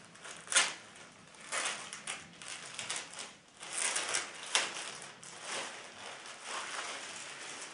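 Packaging rustling and crinkling in irregular bursts as a cap is lifted out and handled, with a few sharper crackles.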